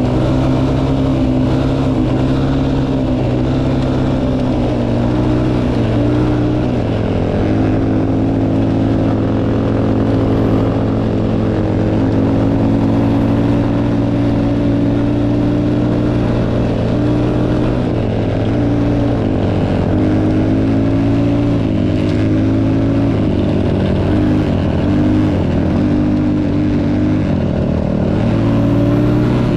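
Motocross bike engine running continuously at fairly steady revs, its pitch stepping up or down a few times as the throttle and gears change.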